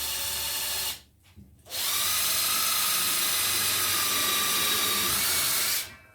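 Power drill running twice, drilling a hole in a part of a bandsaw circle-cutting jig: a short burst ending about a second in, then after a brief pause a steady run of about four seconds with a high motor whine.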